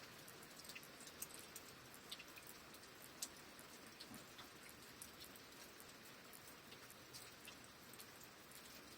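Faint steady rain hiss with scattered light ticks of individual drops.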